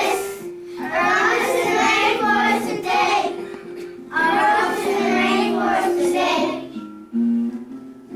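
A group of children singing a song with instrumental accompaniment, in two long phrases with a short gap between them.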